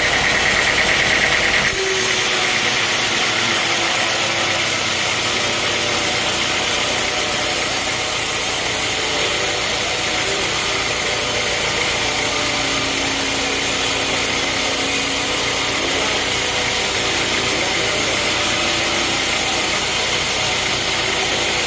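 Sawmill machinery running steadily: an engine note under a broad, even whirr. About two seconds in, a higher whine and some of the low rumble drop away, and the running then stays even.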